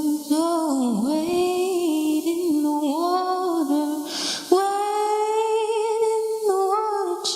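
A solo female voice singing a cappella without words, sliding between long held notes, with an audible breath about four seconds in.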